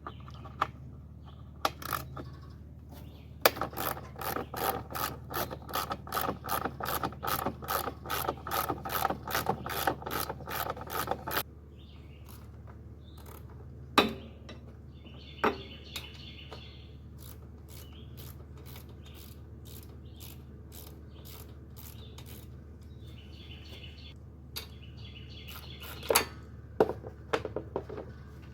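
Socket ratchet wrench clicking steadily, about four clicks a second, for several seconds as the bolts around the sides of the engine cowl are loosened. It stops, and a few scattered knocks and clinks of tools and metal parts follow.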